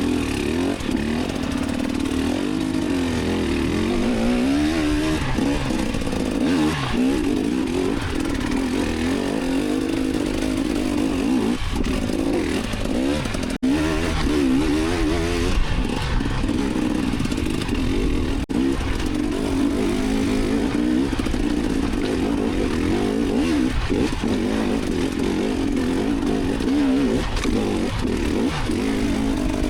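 Enduro dirt bike engine being ridden hard off-road, the revs rising and falling constantly as the throttle is worked.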